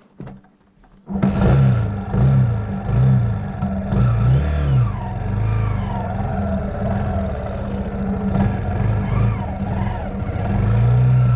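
Dirt bike engine that comes in abruptly about a second in and then revs up and down over and over, its pitch rising and falling with the throttle.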